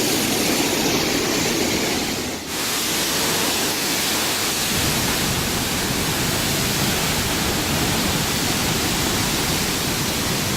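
Pailón del Diablo waterfall, a loud, steady rush of heavy falling water, with one brief dip in level about two and a half seconds in.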